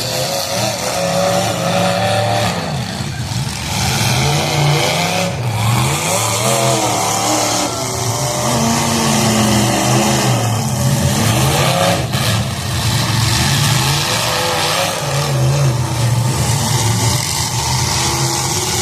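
Several demolition derby cars' engines revving up and down together, with a sharp bang about twelve seconds in.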